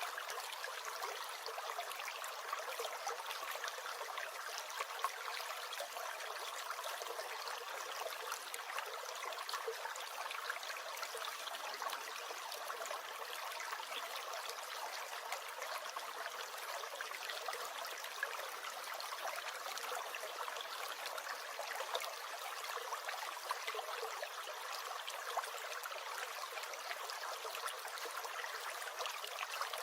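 Small stream gurgling: a steady rush of running water, flecked with many tiny splashes and bubbles.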